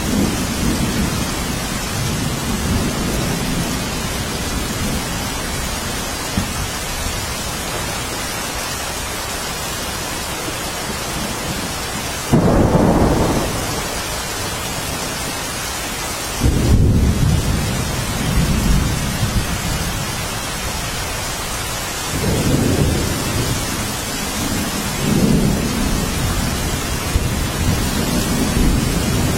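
Steady rain in a thunderstorm, with low rolls of thunder swelling and fading over it. A sharper peal breaks in suddenly about twelve seconds in, and another about four seconds later, followed by further rumbles.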